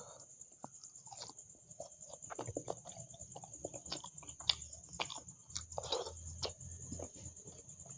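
Close-miked eating sounds: soft chewing with irregular wet mouth clicks and lip smacks, over a steady faint high whine.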